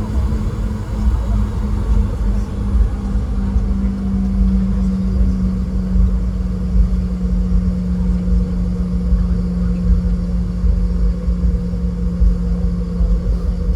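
Cabin noise of a Boeing 717 taxiing, its two rear-mounted Rolls-Royce BR715 turbofans near idle: a steady low rumble with an engine hum that eases slightly lower in pitch about four to five seconds in and then holds steady.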